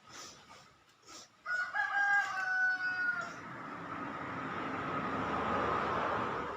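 A rooster crows once, a long call falling slightly in pitch. A broad rushing noise then swells and holds for about three seconds.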